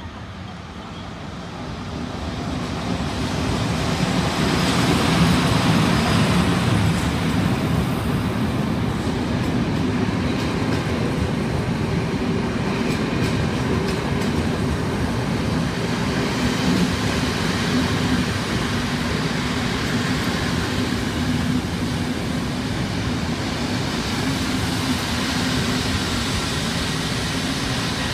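Historic passenger train hauled by E646 and E656 electric locomotives approaching and running past the platform. The sound grows over the first few seconds as the locomotives arrive, then settles into a steady rumble of the coaches' wheels rolling along the rails, with a low electric hum underneath.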